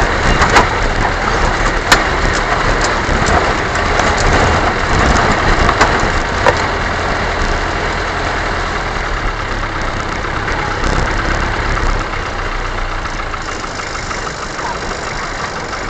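A motor vehicle's engine running steadily, with sharp knocks and rattles in the first several seconds.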